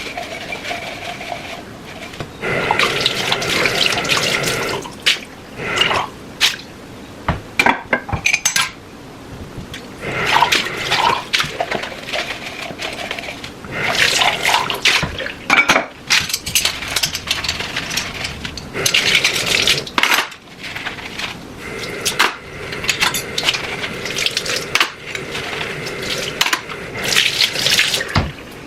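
Water running and dishes and cutlery clinking, in several bursts with sharp clicks and knocks between.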